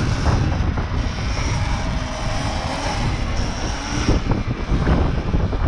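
Electric dirt bike on the move: wind rushing and rumbling over the microphone, with a faint high motor whine.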